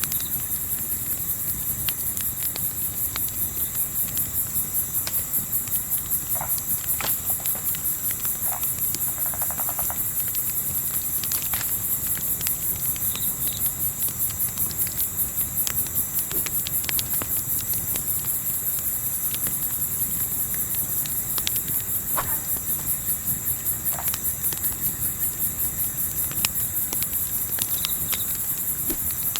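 Night insects chirping in a fast, even, high-pitched pulse that never stops, over a low steady rumble of wind, with scattered small pops and crackles from a campfire.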